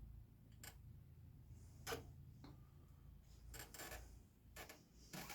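Faint, scattered taps and clicks, about half a dozen, from a board and tools being handled on a workbench, over a low steady hum.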